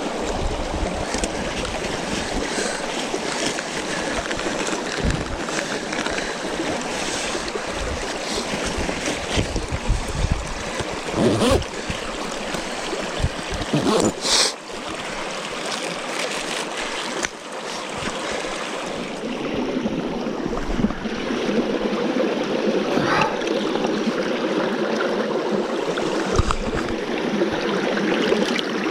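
Stream water running steadily close by, with a few brief knocks and handling clicks.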